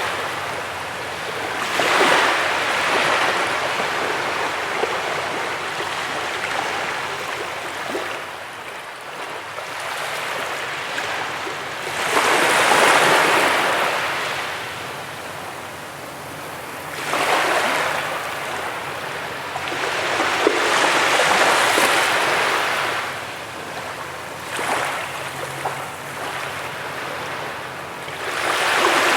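Ocean surf breaking on a beach: a steady wash of water that swells into louder breaking waves every few seconds, the biggest about twelve seconds in.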